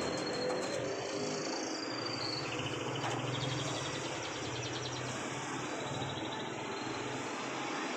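Domestic canary singing a long run of rapid rolling trills, each held for a second or two before shifting to a new pitch, over a steady background hiss.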